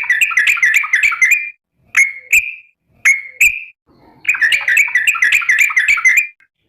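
Yellow-vented bulbul (trucukan) calling: a fast bubbling run of notes, then two pairs of separate notes, then another long fast run, the 'ropel' that bird-keepers play to get other trucukan to answer.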